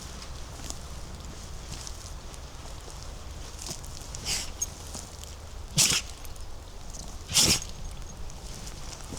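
Footsteps on a forest floor of leaves, moss and twigs, with scattered light crackles and two louder short noisy sounds about a second and a half apart, in the second half.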